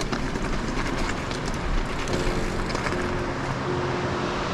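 Electric mountain bike rolling over a rocky trail: steady tyre-on-gravel noise with frequent rattling clicks from the bike, and a faint steady hum that comes in about two seconds in.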